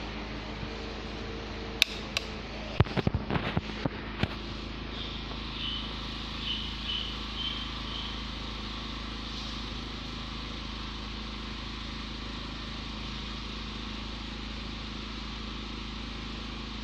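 Selamat MQ-A16 orbit ceiling fan running with a steady hum and air noise. Several sharp clicks come between about two and four seconds in, and faint high chirps a little after.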